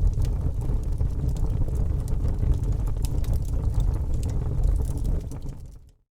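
Campfire burning with a steady low rumble and scattered sharp crackles and pops, fading out to silence near the end.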